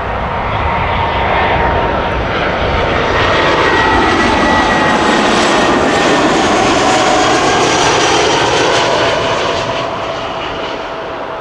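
Jet airliner on landing approach passing by: engine roar swells and fades, its engine whine dropping in pitch as the aircraft goes past.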